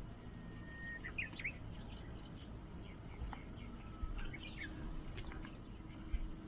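Small birds chirping and calling: short quick notes and a couple of held whistles. Two sharp clicks come about two and a half and five seconds in, over a low background rumble.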